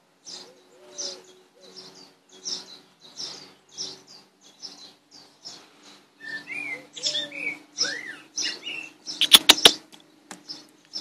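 Background birds chirping, a short high note repeated about twice a second, with other gliding bird calls joining in the second half. About three-quarters of the way through, a quick run of several loud knocks stands out above the birdsong.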